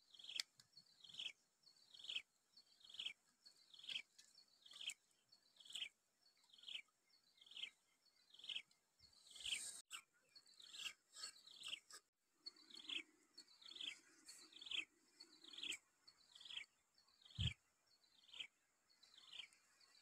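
A bird calling a short, high descending note over and over, about once a second, with one dull thump near the end.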